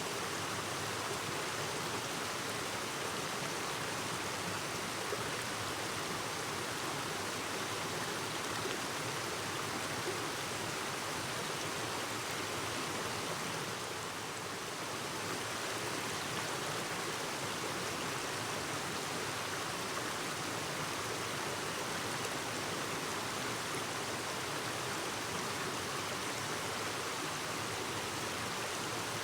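Clear river stream babbling steadily over rocks, an even rush of flowing water that eases slightly about halfway through.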